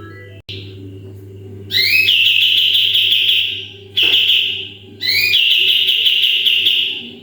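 Kapas tembak songbird giving its loud 'tembakan' song: two long ringing calls, each opening with a quick rising sweep and then held as a fast trill. A shorter call falls between them.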